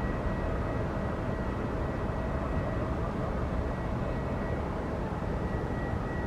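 Steady aircraft turbine noise: a constant low rumble with a high whine held on one pitch, unchanging throughout.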